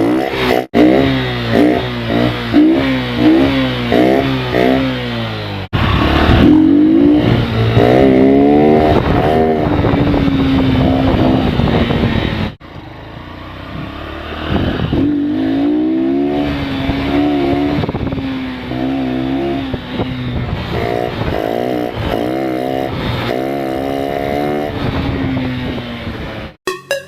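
Honda Livo's single-cylinder four-stroke engine running with its air filter removed, revved again and again in quick throttle blips that rise and fall in pitch, then held up at higher revs for a few seconds at a time. The sound breaks off abruptly a few times.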